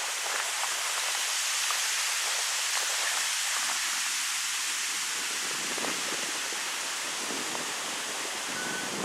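Wind blowing through birch trees: a steady rushing hiss of leaves, with gusts that swell and ease in the second half.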